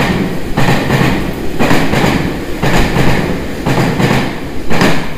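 Tobu Railway train running past at speed, its wheels clacking over the rail joints about once a second as each car goes by, over a steady rumble.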